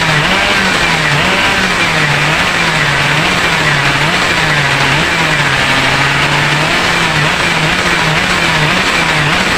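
A tuned underbone motorcycle engine running fast and unevenly. Its pitch dips and recovers about every second, with a longer low stretch a little past the middle.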